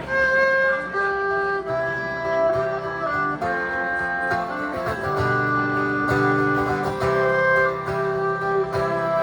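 Instrumental introduction to a song played on acoustic guitar, with a held, singing melody line over it. The playing begins suddenly at the start.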